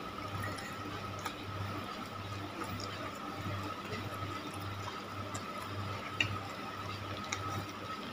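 Close-up chewing of cilor and macaroni, wet mouth sounds pulsing at about one and a half chews a second. A few light clicks, the sharpest about six seconds in, over a steady faint hum.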